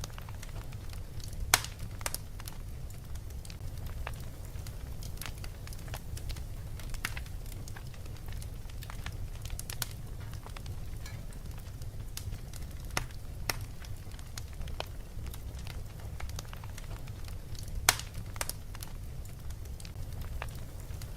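Crackling fire with irregular small pops throughout and two much louder sharp snaps, one about a second and a half in and one near the end, over a steady low rumble.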